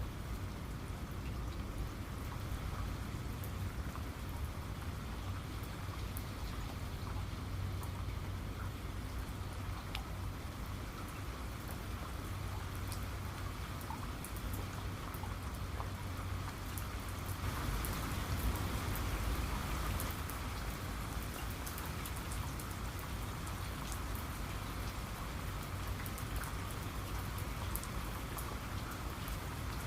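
Steady rain falling, with individual drops ticking sharply on a surface over a low rumble. It swells a little louder for a couple of seconds about two-thirds of the way through.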